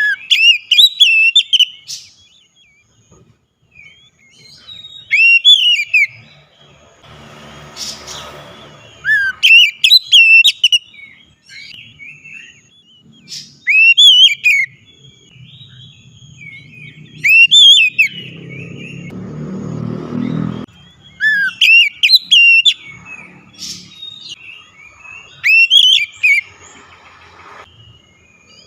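Oriental magpie-robin (kacer) singing loudly: short phrases of sweeping, rising and falling whistled notes, repeated every few seconds. A low rumble comes and goes twice beneath the song, around 8 s in and again a little before 20 s.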